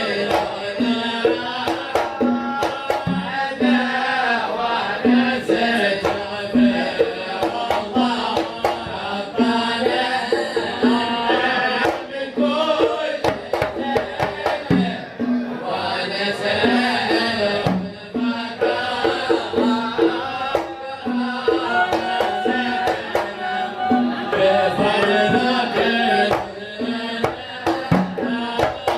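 Sama' devotional song: voices singing a melody over a steady, evenly spaced hand-drum beat.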